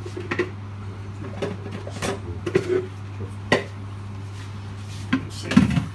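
Plant pots being handled on a counter: a clear container and a plastic pot knocking and clicking several times, the loudest clatter near the end, over a steady low hum.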